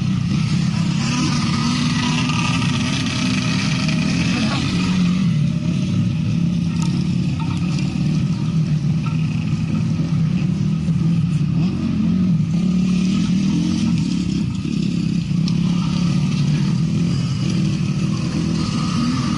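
Motocross motorcycle engines running, the engine note wavering up and down with the throttle.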